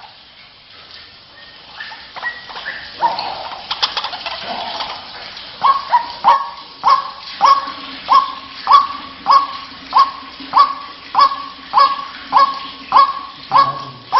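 White-breasted waterhen calling. A few scattered, uneven notes are followed, about six seconds in, by a steady run of loud, sharp 'kwak' notes at about one and a half a second.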